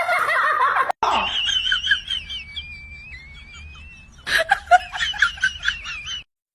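High-pitched laughter in bursts, with a thin wavering whistle-like tone between them. It ends in a quick run of loud laughs that cuts off abruptly near the end.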